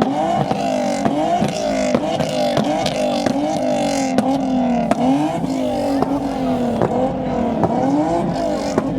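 Car engines revving over and over in quick rising bursts, the pitch climbing and dropping several times a second, with many short sharp cracks throughout.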